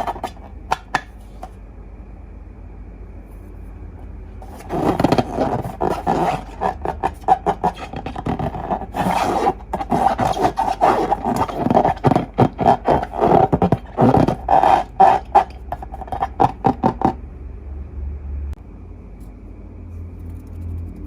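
Slime and rubber long balloons being handled and squeezed: a dense run of rapid, sticky crackling and rubbing clicks. It starts about five seconds in and stops about seventeen seconds in.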